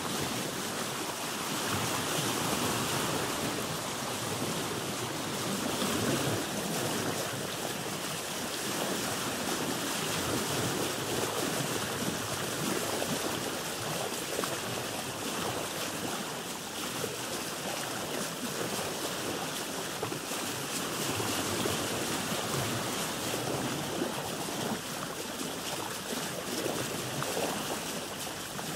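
Sea water washing and lapping against a boat's hull, a steady rushing wash that swells and eases every few seconds.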